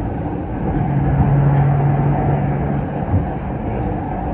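Train noise aboard an MTR Tuen Ma line CRRC Changchun train: a steady low rumble, with a low hum that holds for about two seconds in the middle.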